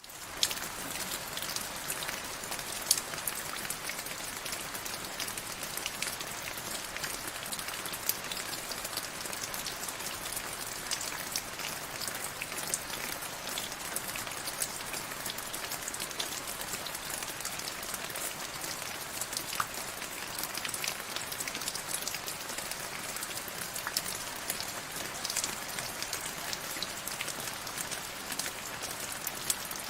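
Steady rain falling, with the close, distinct taps of individual drops striking a surface.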